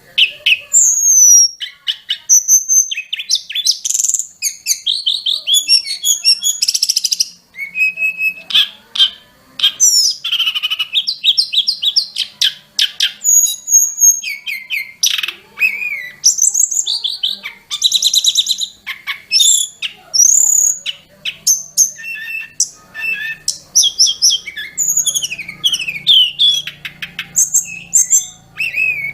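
Sulingan gunung (tledekan gunung) singing a loud, rapid, varied song of high whistles, slurred notes and fast trills with hardly a pause, cutting in suddenly.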